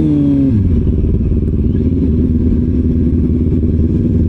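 Motorcycle engine rising briefly in revs and dropping back at the start, then running at a steady low pitch.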